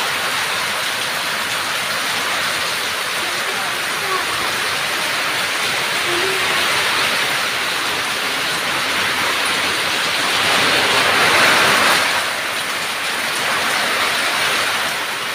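Heavy rain pouring down steadily, a dense hiss that swells louder about ten to twelve seconds in.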